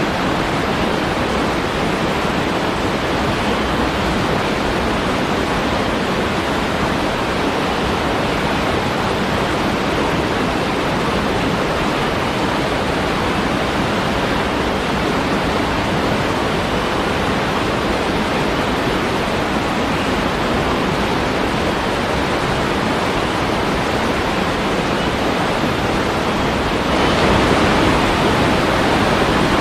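Waterfall: a steady, even rush of falling water, stepping up slightly louder near the end.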